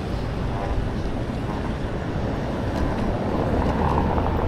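Wind buffeting the microphone of a camera carried by a moving cyclist, a steady low rumble of rushing air.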